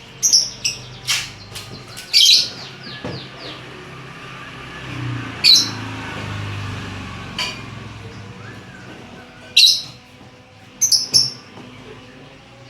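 Lovebird chirps: sharp, high, short calls, a few in the first seconds, then a quick run of several about two seconds in, then single calls spaced out, with a close pair near the end.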